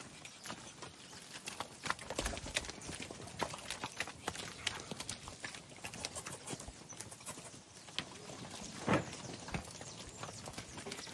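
Hooves of a group of heifer calves knocking and clopping irregularly as the animals move about a pen, with one louder thump about nine seconds in.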